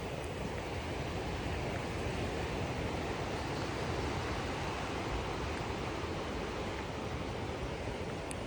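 Steady rushing noise of ocean surf, even and unbroken.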